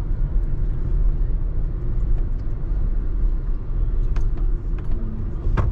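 A moving road vehicle, a steady low rumble of engine and road noise, with two sharp knocks in the second half.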